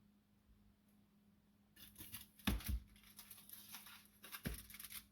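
Kitchen handling noises: a run of rattling and clicking, with a couple of light knocks about two and a half seconds in and another near the end, as seasoning containers and dishes are handled.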